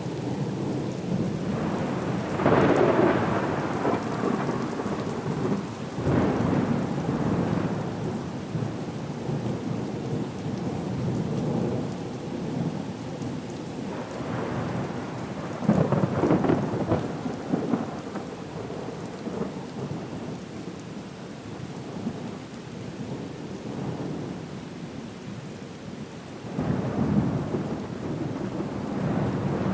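Thunderstorm ambience: steady rain under rolling thunder that swells four times, loudest about two seconds in and about sixteen seconds in.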